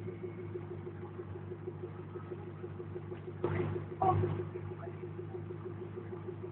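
A car engine idling steadily, with two short louder sounds about three and a half and four seconds in.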